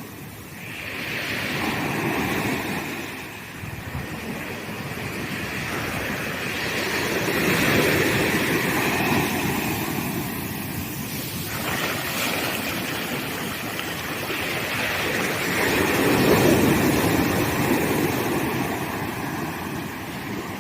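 Ocean surf breaking on a sandy beach, rising and falling in successive swells. One wave crashes in suddenly about twelve seconds in, and the loudest surge comes a few seconds later.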